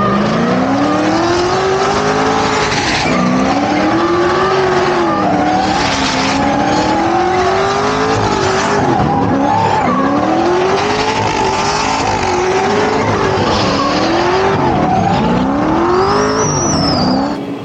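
Drift car engine revving up and falling back again and again, with tyres squealing as the car slides. The sound cuts off abruptly near the end.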